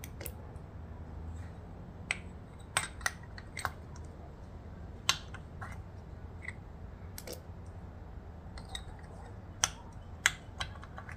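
About a dozen light, sharp clicks and taps at irregular intervals: valve lifters and small metal parts being handled and set into their bores on a Toyota 2AZ-FE cylinder head.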